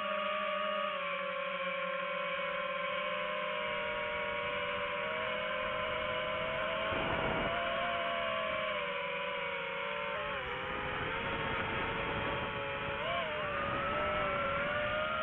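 Drone propellers whining steadily, the pitch sagging and wobbling as the motors change speed.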